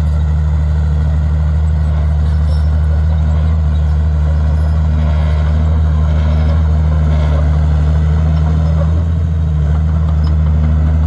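Komatsu D51PX bulldozer's diesel engine running steadily under working load, with a brief dip about nine seconds in.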